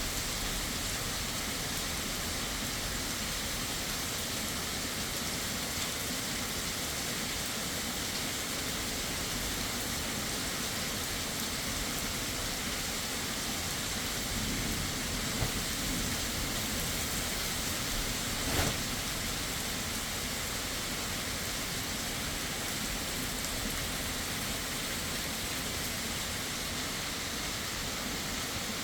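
Heavy rain falling steadily. Two brief sharp taps sound partway through, the louder one a few seconds after the first.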